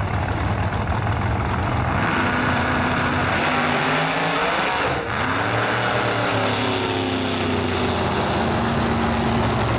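A drag-racing car's engine, likely Brian Davis's 1969 Camaro, running loudly. There is a short break about five seconds in, then a rising rev.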